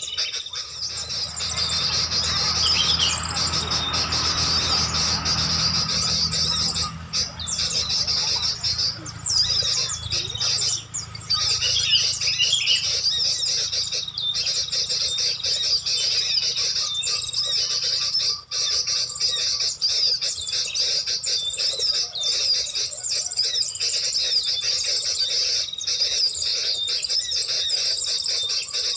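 Small birds chirping rapidly and without pause in a dense, high-pitched chorus, with a low rumble underneath for the first several seconds.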